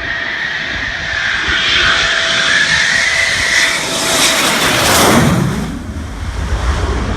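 Military fast jet passing close: a high turbine whine that slowly drops in pitch, swelling to a loud rush about five seconds in, then fading.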